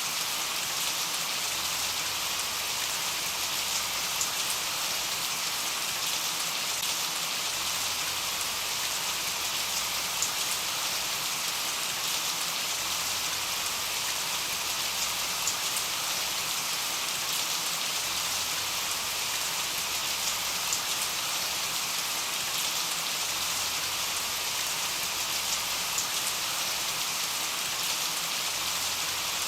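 Steady rain falling: a dense, even hiss with faint scattered ticks of individual drops.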